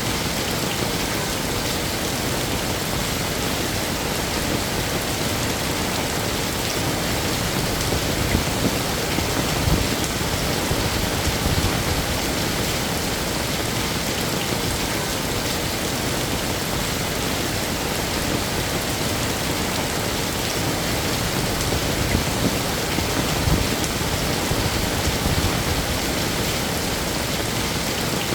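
Heavy rain falling steadily, a dense even hiss with occasional louder drops spattering on a surface.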